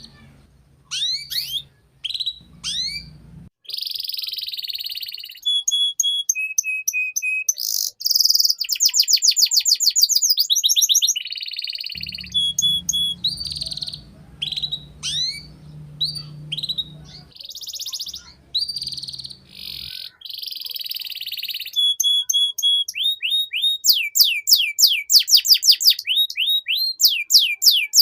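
Domestic canary singing a long, varied song of rapid trills, fast runs of rising sweeps and short held whistled notes, with hardly a break.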